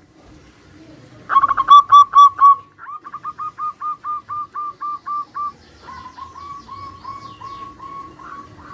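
Zebra doves (perkutut) cooing: about a second in, four loud clear notes, then a quick run of a dozen shorter notes, answered after a short gap by a fainter run of similar notes.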